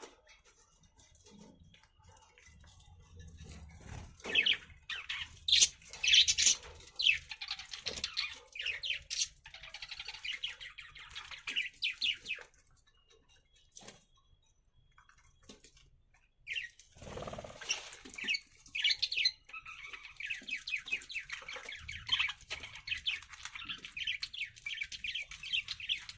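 Budgerigars chirping and chattering in rapid, squawky runs, with a quieter pause partway through and a brief loud rustle of movement about two-thirds of the way in.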